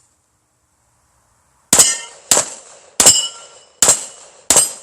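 Five quick gunshots starting a little under two seconds in, about one every 0.7 s. Each is followed by the metallic ring of a struck steel target plate.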